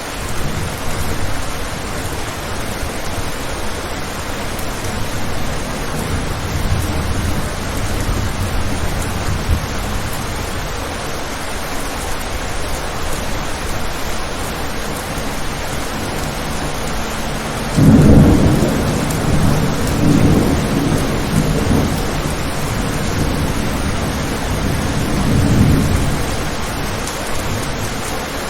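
Steady rain falling on a window, with distant thunder rumbling low. About two thirds of the way in, a louder clap of thunder breaks and rolls on in waves for several seconds.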